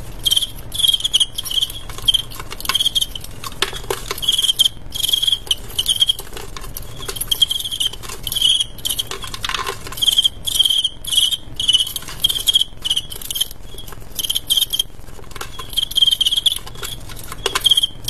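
Male fighting crickets chirping in short, irregular bursts, with dry scratching clicks between the chirps.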